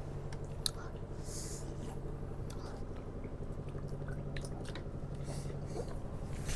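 Someone chewing spicy noodles close to the microphone, with scattered small mouth clicks and two short hissing sounds, over a steady low hum.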